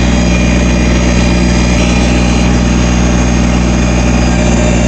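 Backhoe engine running steadily at a constant, low speed.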